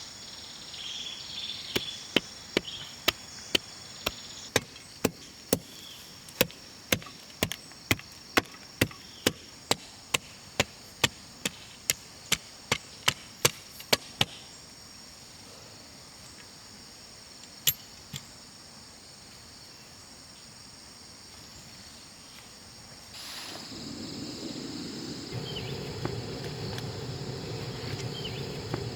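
Wood being chopped: a steady run of sharp chopping strikes, about two a second, for some twelve seconds, then two more strikes, and a louder rough noise near the end. Insects chirp steadily throughout.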